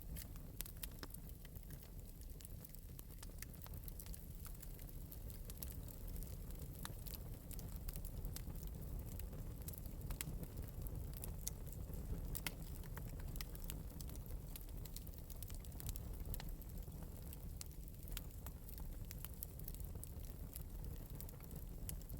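Wood fire burning in an open metal fireplace, crackling with irregular small pops and snaps over a low, steady rumble of flame.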